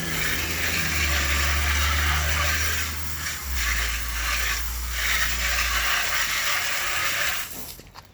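Pressure washer spraying water at a tire: a steady spray hiss over the low hum of the washer's motor, which shifts pitch a few times and stops near the end.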